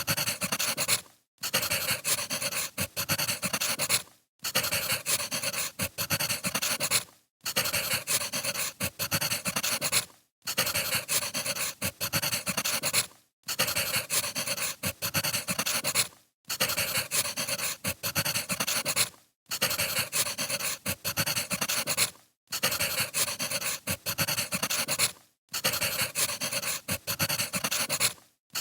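Crackling wood fire with many small pops. The recording is a short loop, cut off by a brief silent gap about every three seconds.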